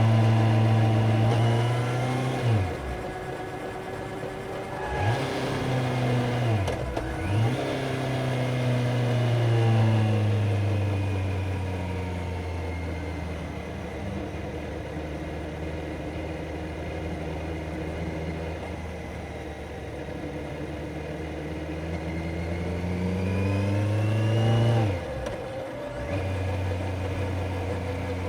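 Kawasaki Z900 inline-four motorcycle engine under way, its pitch dropping and climbing several times in the first few seconds as the rider rolls off and shifts. It then runs at a steady pitch for a long stretch, rises near the end and drops off sharply.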